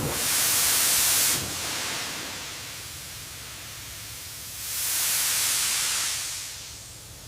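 A hissing rush of noise with no pitch to it, loudest at the start and swelling again about five seconds in before fading.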